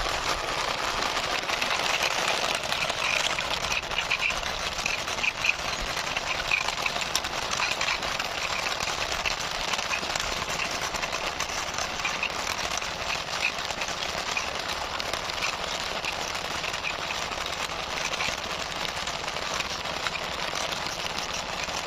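Toy vehicle's wheels rolling and scraping over the ground as it is pushed along by hand, a steady rattling noise.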